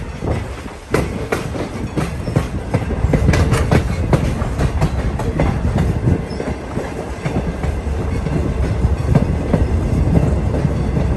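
Railroad passenger coach rolling along the track: a steady low rumble with frequent irregular clicks and clacks of the wheels over the rails.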